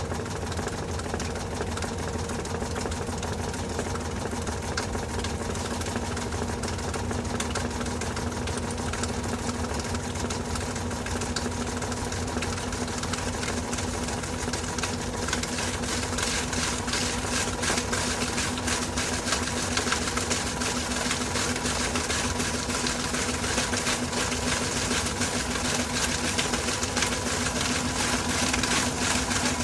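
LG TurboDrum top-loading washing machine running with a steady motor hum and whir; from about halfway the whir grows louder and hissier.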